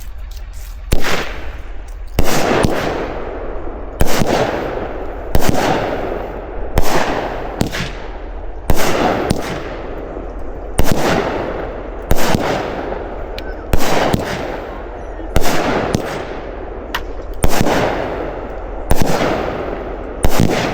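The Howling Wolf firework cake firing a long sequence of shots, about one every one and a half seconds, each a sharp bang that fades away in a noisy tail.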